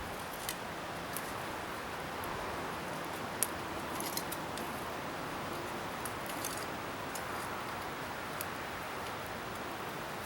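Scrap-wood bonfire burning with a steady rushing hiss, and scattered sharp crackles and pops, the loudest about three and a half seconds in.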